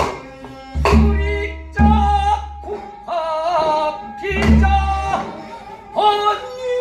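Korean namdo folk singing: one voice sings held, shaking notes over deep drum strokes that land every second or two.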